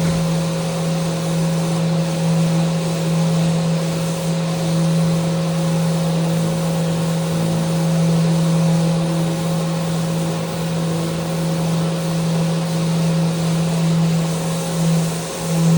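Electric power sander running steadily with a constant motor hum and abrasive hiss, briefly dipping in level near the end, as it sands a wooden handrail.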